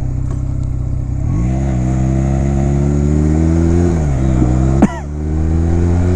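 2009 Honda Rebel 250's air-cooled parallel-twin engine pulling hard under acceleration: the pitch climbs steadily from about a second in, drops as it shifts up a gear around four seconds in, then holds higher again. A single sharp knock comes near the five-second mark.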